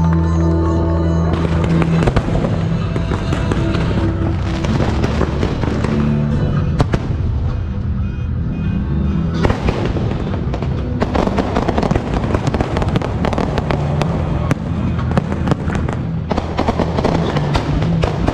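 Aerial fireworks going off in quick succession, dense bangs and crackling, over a song.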